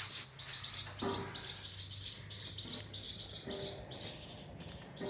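Barn swallows giving quick, evenly repeated high chirps, about three a second, without a break.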